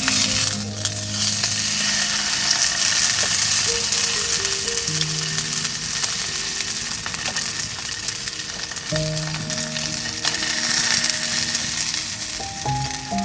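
Steak sizzling in a hot pan: a steady frying hiss with small pops. Soft background music with long held notes plays under it.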